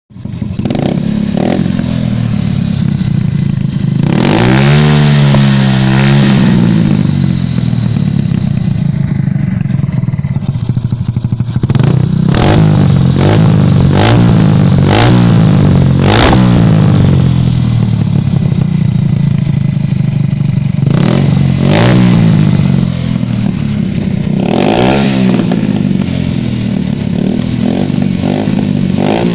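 Yamaha Crypton 115's single-cylinder four-stroke engine running, with the throttle blipped several times: a longer rev about four seconds in, a run of four quick revs in the middle and two more near the end, each falling back to idle. It is run to show an unwanted noise the bike is making.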